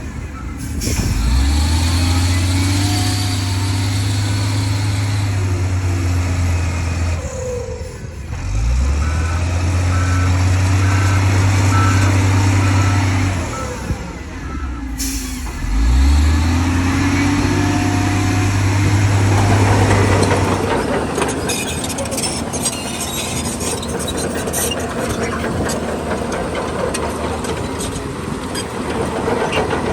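Heavy diesel engine of earthmoving machinery surging under load three times, about seven seconds apart, each time holding for several seconds before easing off. A few short beeps come near the second surge. In the last third the engine settles and a rough, steady clatter takes over.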